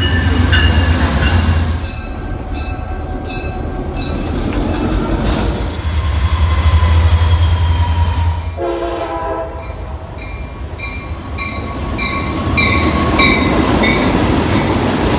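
Passing trains: an Amtrak P42DC diesel locomotive runs by with a low engine rumble, a locomotive horn sounds a chord for about a second and a half some nine seconds in, and freight cars roll past near the end with a steady clicking of wheels over rail joints.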